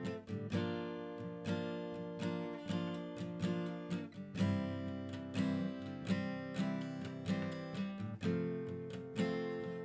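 Acoustic guitar strummed in a steady rhythm, about two strokes a second, with the chord changing roughly every four seconds.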